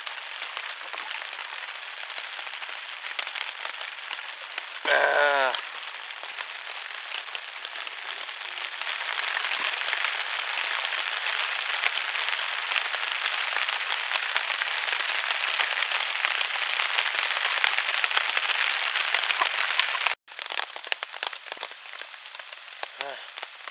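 Heavy rain falling steadily, a constant hiss that grows louder through the middle, then cuts off suddenly and comes back with sharper drips near the end.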